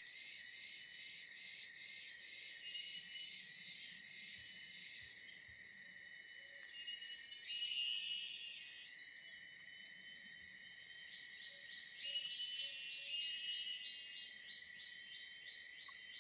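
Insects chirping and trilling in a steady high-pitched chorus, with a few louder chirps about halfway through and again later on.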